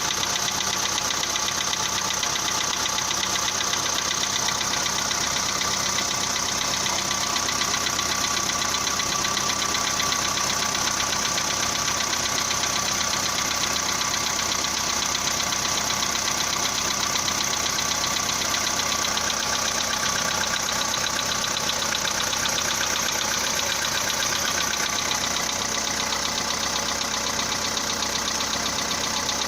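Volkswagen Polo Sedan petrol engine idling steadily soon after a cold start, with a fast, even knock that keeps pace with the engine's rotation. This is the knock that is characteristic of this engine on a cold start.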